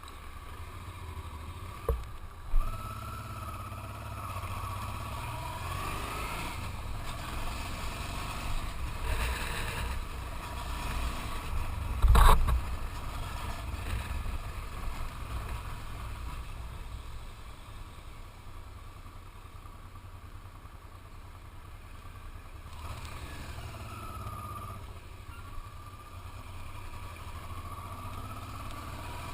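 Motorcycle riding through town traffic: the engine note rises and falls as it changes speed, over a constant low rumble. One sharp knock about twelve seconds in.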